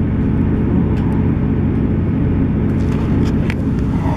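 South Western Railway Class 158 diesel multiple unit running at speed, heard from inside the carriage: a loud, steady rumble of the underfloor diesel engine and the wheels on the rails.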